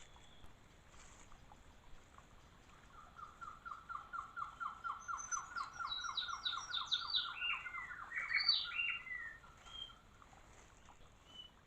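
Bird song: a fast, even run of short repeated notes, about eight a second, starting about three seconds in. Partway through, higher notes join and step down in pitch before the song stops near the ten-second mark.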